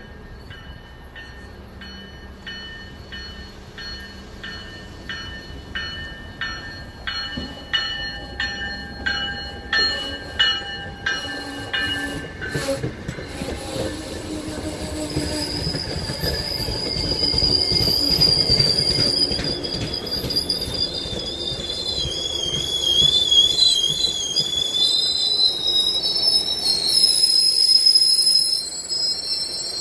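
MBTA commuter rail train of bilevel coaches pulling into the station. A bell rings about twice a second for roughly the first twelve seconds, over a rising rumble of the passing cars. Then a high wavering squeal from the wheels and brakes sets in as the train slows.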